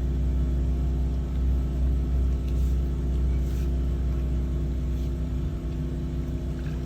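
Drain-cleaning machine's motor running steadily with a low rumble and a constant hum.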